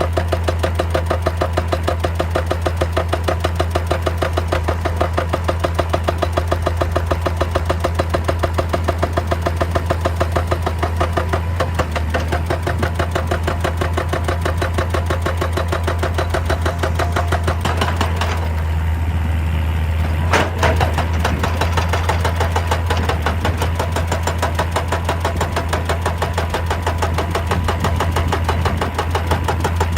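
Excavator's diesel engine running steadily with a fast, even pulsing that blurs after about twelve seconds, and one sharp knock about twenty seconds in.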